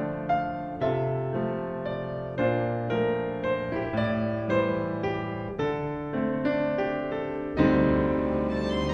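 Piano music: a slow melody of single struck notes, each ringing and fading. About seven and a half seconds in, a fuller, sustained chord swells in.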